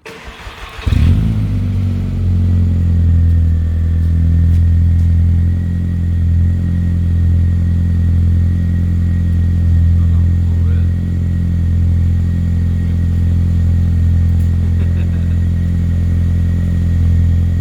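A Mk1 vRS's 1.8-litre turbocharged four-cylinder engine cranks briefly and catches about a second in. It then idles steadily through its newly fitted homemade custom exhaust.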